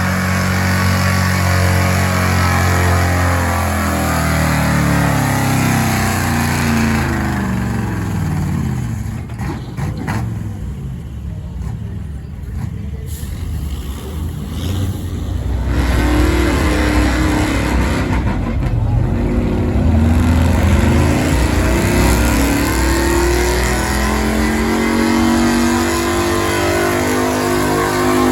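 Stock gas pickup truck engine running hard at wide-open throttle while pulling the weight sled, its pitch falling over the first several seconds. It quietens for a few seconds in the middle, then the engine sound comes back and climbs in pitch again toward the end.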